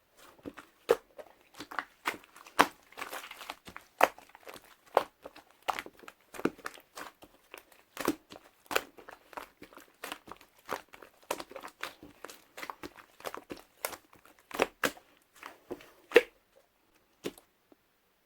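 Hands pressing, folding and poking a two-layer slime topped with clay, making irregular sticky clicks and air-pocket pops about one or two a second. The clicks stop about a second before the end.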